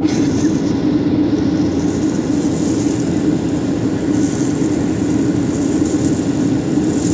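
Airliner cabin noise: a loud, steady rush of engines and airflow with a low hum underneath.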